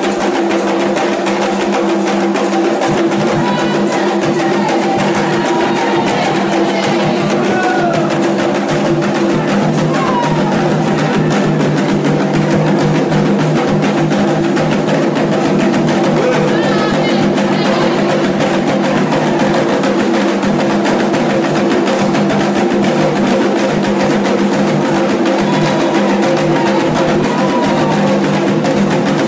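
Candomblé ceremonial music: atabaque hand drums playing continuously and loudly, with faint voices above them.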